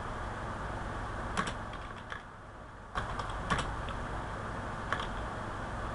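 A few scattered keystrokes on a computer keyboard over a steady background hiss.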